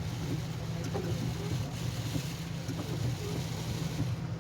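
Steady low rumble of a vehicle engine running, heard from inside the cabin, under an even hiss of light rain.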